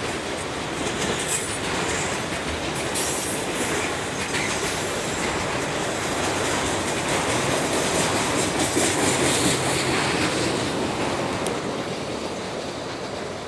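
Freight train of autorack cars rolling past on steel wheels, clattering over the rails, fading toward the end as the last car moves away.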